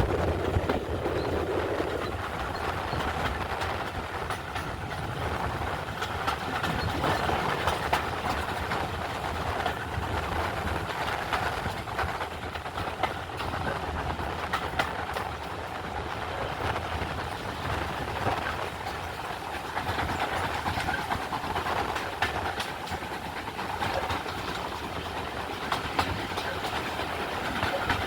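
Steam-hauled heritage train running past, its wheels clicking steadily over the rail joints.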